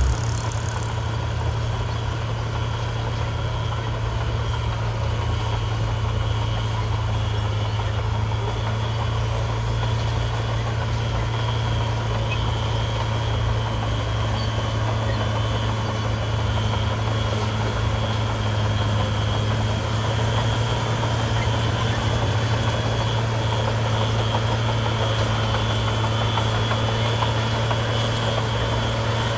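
Heavy diesel engine of a construction machine (dump truck or bulldozer) running steadily at idle, with no revving or change in pitch.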